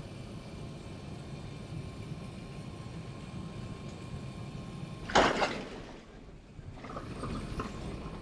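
Airbus A380 cabin noise: a steady low rumble with a faint whine. About five seconds in, a brief loud rustle or knock breaks through, and after it the sound turns quieter.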